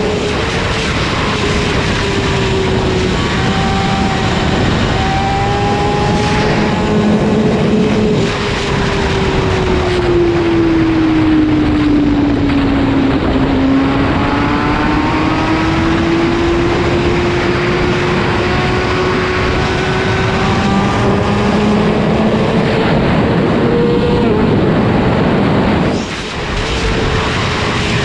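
Sport motorcycle engine running hard at high revs over a steady rush of noise. Its pitch sinks slowly for about the first half, then climbs back up. Near the end the sound dips briefly before carrying on.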